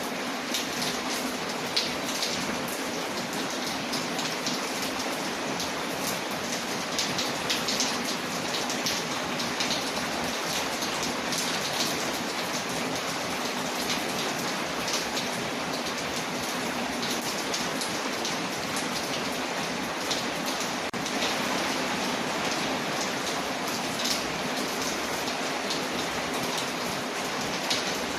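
Steady rain on a window, mixed with a crackling fireplace fire giving frequent small ticks and pops.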